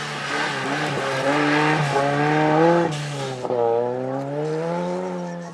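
Ford Sierra RS Cosworth rally car's turbocharged four-cylinder engine under hard acceleration: the revs climb, drop sharply at a gear change about three seconds in, then climb again. The sound is loudest near the middle and fades toward the end.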